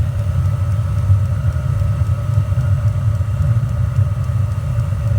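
Chinese 5 kW diesel air heater running: a steady low rumble with a steady whine over it, and faint, fast, even ticks from its fuel pump, which the owner says seems to be running way too fast.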